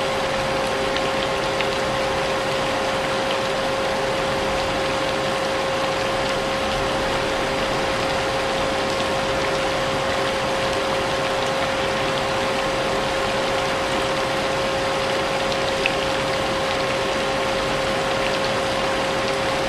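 Vacuum cleaner running steadily with a constant motor hum, mixed with a steady hiss of rain.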